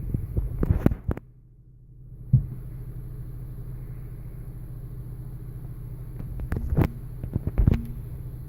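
A steady low hum, broken by clicks and knocks of handling. The hum drops out for about a second, about a second in, then returns.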